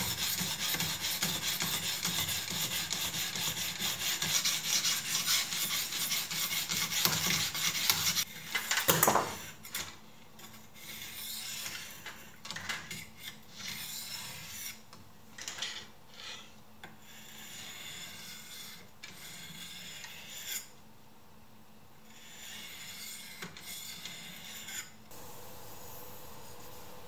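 Steel knife blade stroked quickly back and forth along a sharpening stone in a guided sharpening jig, a steady rasping rub for about eight seconds. A louder knock comes about nine seconds in, then slower, quieter scattered strokes.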